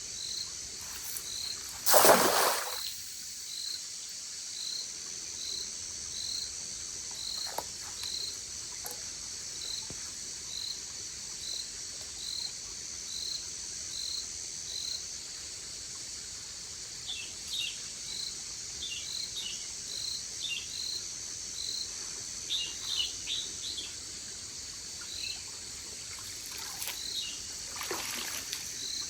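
Forest creek ambience: a steady high insect drone with a short high chirp repeating about every three-quarters of a second, and scattered bird chirps in the second half. About two seconds in, a single loud, brief burst of noise stands out above it.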